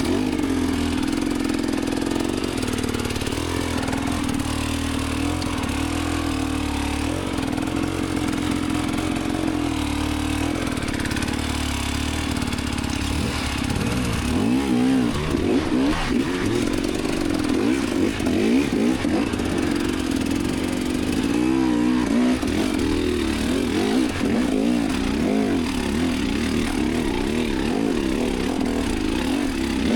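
Dirt bike engine running steadily at low revs on a hard enduro climb, with the revs swinging up and down in quick blips about halfway through and again a little later as the throttle is worked.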